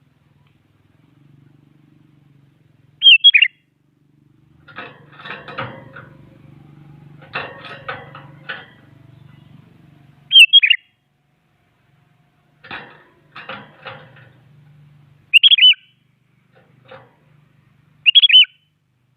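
Sooty-headed bulbul (kutilang) calling: four short, loud whistled phrases a few seconds apart. Between them come fainter fluttering and clattering sounds.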